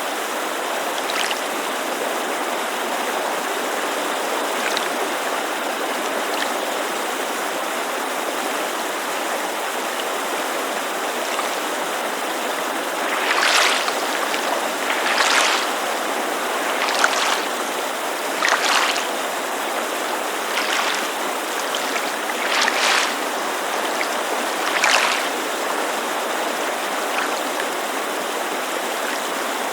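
A mountain creek rushing steadily, mixed with small waves lapping against a lake shore. From about halfway through, about seven short lapping splashes come roughly every two seconds.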